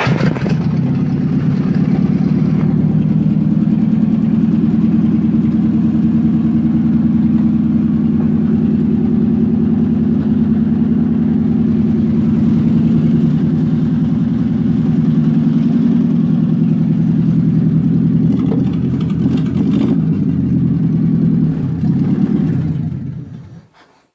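UAZ-469's four-cylinder petrol engine running steadily just after starting from two years of standing; the revs waver a little near the end before it shuts off and dies away.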